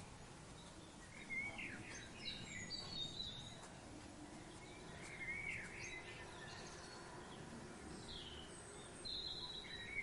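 Several birds chirping and calling in short bursts, a few calls at a time, over a steady low background hiss.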